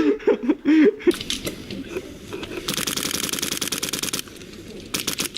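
Airsoft guns firing in rapid full-auto bursts: a short burst, then a longer one of about a second and a half, then another burst starting near the end.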